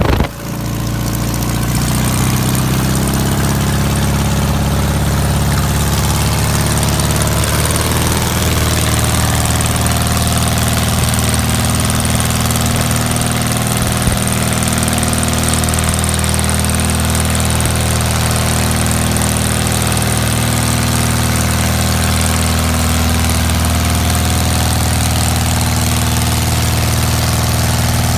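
Engine idling steadily on its first run after winter lay-up. Its level dips briefly at the start and then comes back up, and the tone shifts slightly and settles after about eight seconds.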